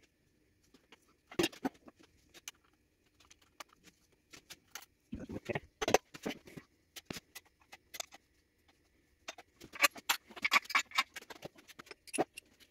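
Irregular sharp metallic clicks and clinks of engine parts and hand tools being handled, with two busier flurries, one about halfway through and one near the end.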